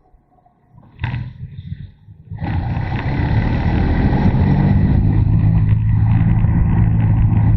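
Motorcycle engine heard from onboard: quiet for the first couple of seconds, then about two and a half seconds in it opens up loudly and runs steadily under throttle.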